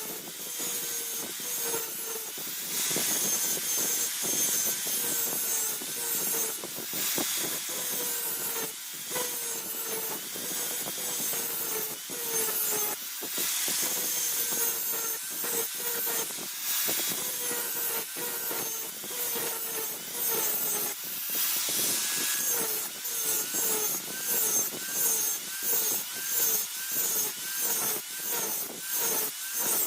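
Hand file scraping back and forth over the steel of a dao blade made from a car leaf spring. The strokes become evenly spaced, a little over one a second, near the end.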